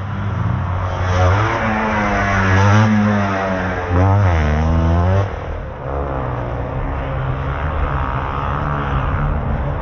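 Motocross dirt bike engines revving hard, their pitch climbing and dropping repeatedly with the throttle and gear changes as the bikes race past. They are loudest between about one and five seconds in, then settle into a steadier, quieter drone.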